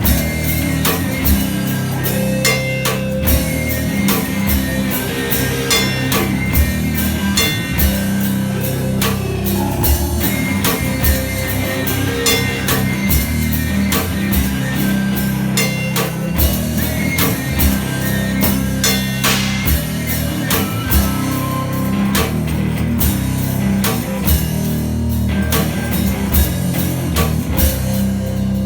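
Live one-man-band instrumental passage: guitar over kick drum and percussion, keeping a steady, even beat.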